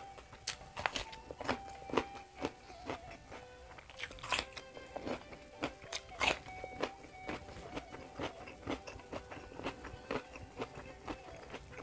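A person biting and chewing a crunchy raw green vegetable, with many sharp, irregular crunches. Soft background music plays underneath.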